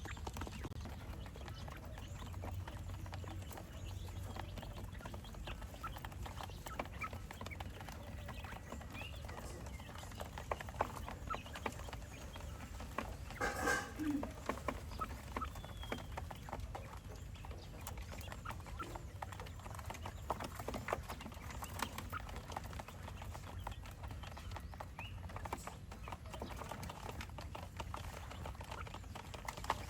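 Small farm fowl, most likely a pen of quail, giving scattered short calls among many light clicks, over a steady low rumble. A louder burst of calls comes about halfway through.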